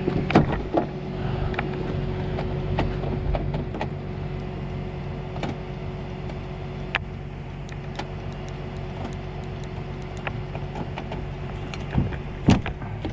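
Vehicle engine idling steadily, with scattered clicks and a few sharp knocks, the loudest near the start and near the end.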